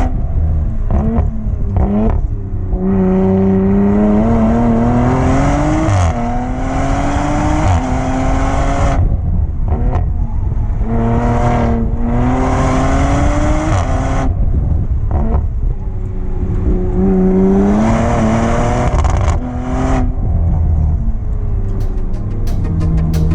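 Tuned Audi TT race car's engine under hard acceleration, its pitch climbing and then dropping back sharply again and again through the run. Near the end it settles to a lower, steadier note with a quick run of clicks.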